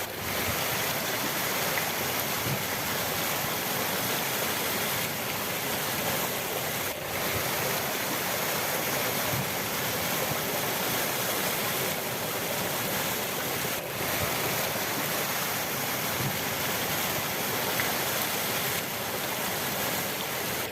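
River water rushing in a steady, even wash of noise, dipping briefly twice.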